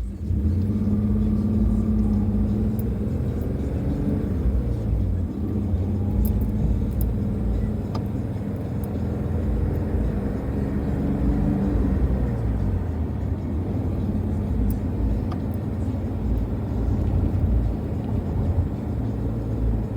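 Car engine and road rumble heard while driving, the engine note rising and falling a few times with changes in speed.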